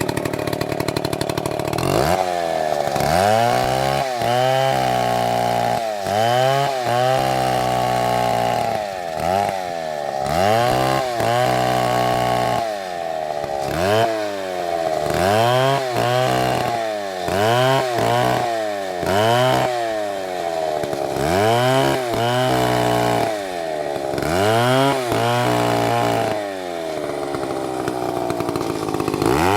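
Chainsaw cutting into a tree: the engine runs steadily at first, then from about two seconds in its pitch repeatedly sags under the load of the cut and climbs back, about once a second or so.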